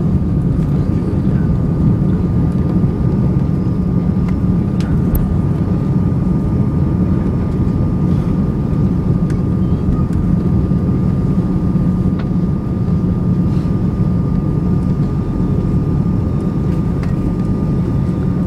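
Cabin noise of an Airbus A340-300 on the ground just after landing: a steady rumble from its four CFM56 engines and the airframe, with a thin steady whine above it.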